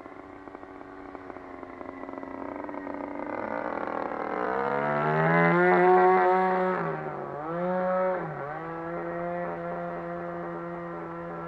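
Small two-stroke petrol model-aircraft engine (RCGF 20cc) throttled up, its pitch rising and loudest about six seconds in, dropping briefly twice around seven to eight seconds, then running steadily at high revs.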